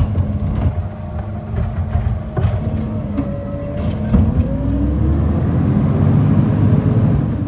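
Garbage truck engine running, with a few sharp knocks in the first four seconds; about halfway through the engine rises in pitch and grows louder.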